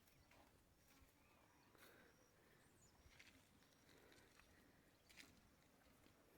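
Near silence: faint rural outdoor ambience with a few faint high chirps and small ticks.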